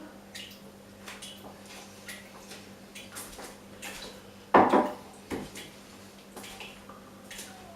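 Water dripping from a tap, short sharp drips about once a second. About halfway through comes a much louder clattering knock, with a smaller one just after.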